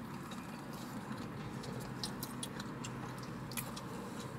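Quiet close-up chewing of food, with scattered small mouth clicks over a steady low hum. The sharpest click comes near the end.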